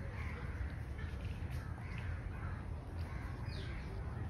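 Birds calling outdoors in short scattered calls, one a quick falling call about three and a half seconds in, over a steady low rumble.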